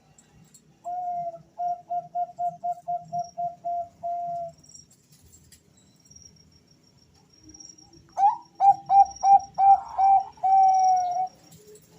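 Male zebra doves (Bangkok perkutut) cooing: two phrases, each a quick run of short notes and a long held coo, the second louder, as two males answer each other.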